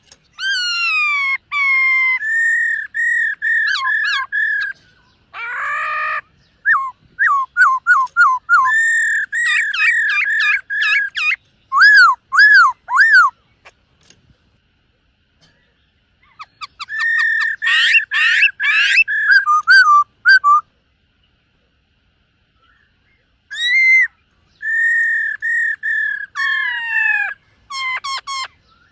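Black-throated laughingthrush singing: phrases of clear whistled notes, many of them short arching notes repeated in quick runs, with a harsher rasping note early on. The phrases are separated by pauses of a few seconds.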